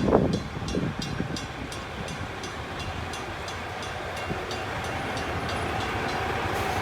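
Freight train rolling past on jointed track, with evenly spaced high clicks at about three a second that fade out after about five seconds, over a steady rumble that slowly grows louder.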